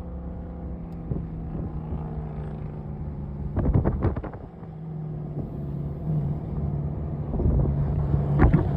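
A car engine running steadily, its pitch sinking slowly over the first few seconds, with brief gusts of noise about three and a half seconds in and again near the end.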